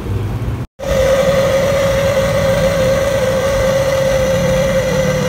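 A small motor-driven machine running steadily, with a constant mid-pitched whine over a low hum, after a brief dropout less than a second in.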